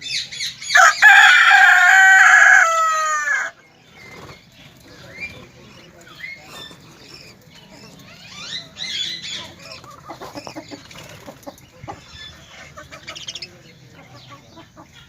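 A rooster crows once: one loud, long call lasting about three seconds that falls in pitch at the end. After it come softer, scattered clucks and chirps from other birds.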